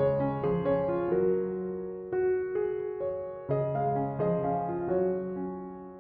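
Soft piano background music: single notes and chords struck about every half second, each fading away.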